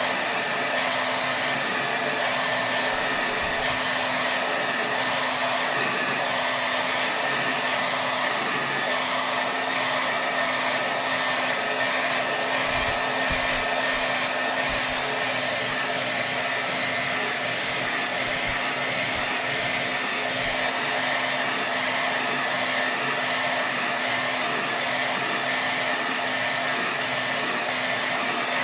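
Hair dryer blowing steadily at full power: an even, unbroken rush of air with a faint motor hum.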